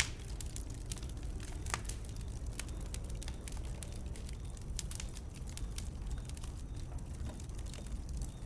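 Wood fire burning, with irregular sharp crackles and pops from the burning wood over a steady low rumble.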